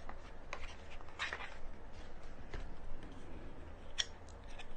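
Hands handling unboxing packaging: faint rustling with a few scattered light clicks and taps as items are taken out of the box.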